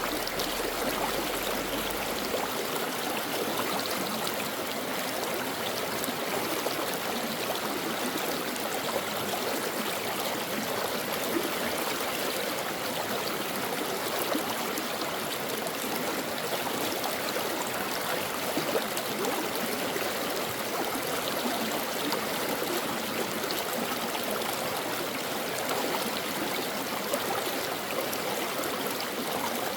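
A stream flowing steadily, its water rushing evenly without a break.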